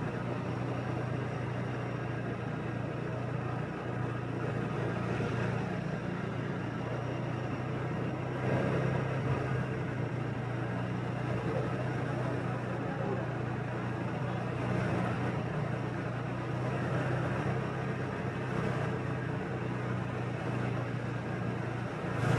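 Motorbike riding along at a steady pace: a constant low engine hum under even road and wind noise, with the sound of surrounding city traffic. It swells a little about a third of the way in.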